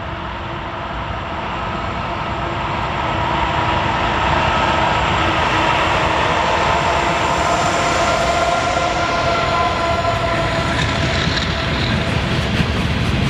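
Diesel-hauled train approaching and running past, its rumble and wheel noise growing louder over the first few seconds and then holding steady. Clicking of wheels over the rails comes in near the end.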